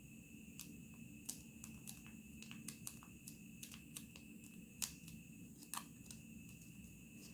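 Origami paper being handled and creased: scattered soft crackles and clicks at an uneven pace, two of them louder about five and six seconds in, over a steady faint high-pitched hum.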